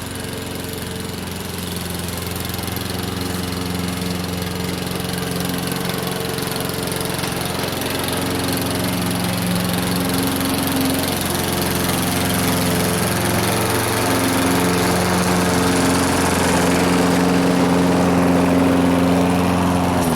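Craftsman walk-behind lawnmower's Briggs & Stratton engine running steadily while cutting grass, growing gradually louder.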